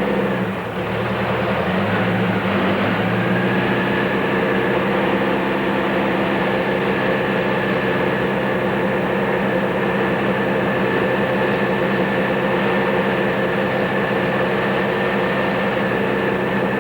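Race truck engine running at speed, heard from inside the cab: its revs drop briefly about half a second in, then climb back and hold steady.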